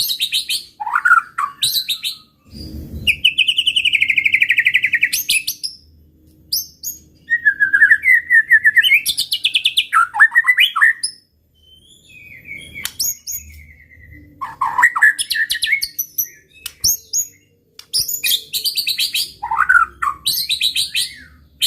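White-rumped shama (murai batu) singing a varied song of sweeping whistles and fast trilled rattles, the phrases broken by short pauses.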